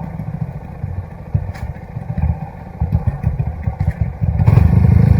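Trail dirt bike engine running with an uneven, low pulsing beat, growing louder about four and a half seconds in.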